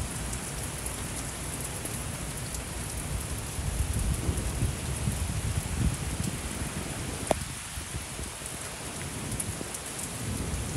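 Heavy thunderstorm rain pouring down steadily, with low rumbles of thunder that swell about halfway through. A single sharp tick a little past the middle.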